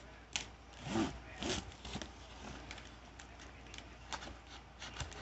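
A knife scraping and cutting at the sealed top of a cardboard train-set box: a sharp click, then a few rasping scrapes and scattered small clicks and rustles.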